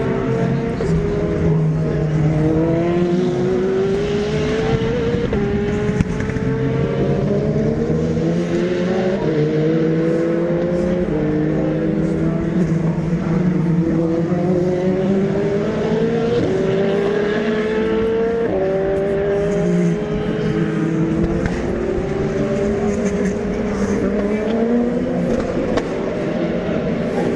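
Race car engines accelerating through the gears, each climbing in pitch and dropping back at an upshift, again and again every couple of seconds, over the steady drone of other cars on track.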